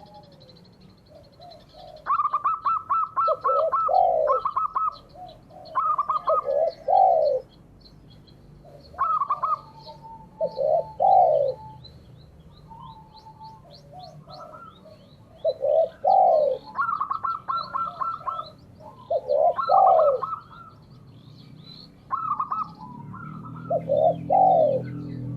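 Doves cooing in repeated phrases, each a quick run of short clipped notes followed by two or three lower, swelling coos, coming every few seconds, with faint high chirping of small birds behind. A low steady hum comes in near the end.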